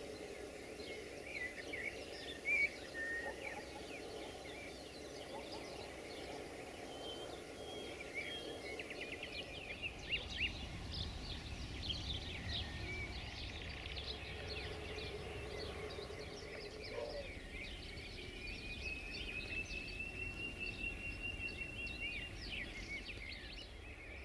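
Many short bird chirps and calls over faint steady background noise, with a low rumble setting in about halfway through.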